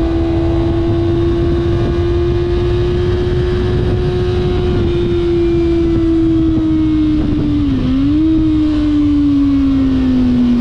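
Kawasaki ZX-6R inline-four engine running at high revs at speed, its pitch steady and then slowly falling, with a brief dip and recovery about eight seconds in. Heavy wind rush on the microphone sits under it.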